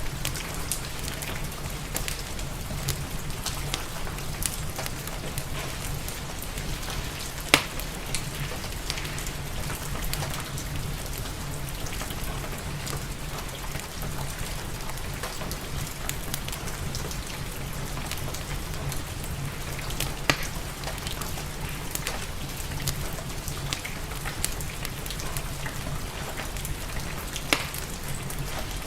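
Steady rain ambience mixed with a fireplace's crackle, full of fine ticks, with a steady low rumble beneath. Three sharper, louder clicks stand out at intervals.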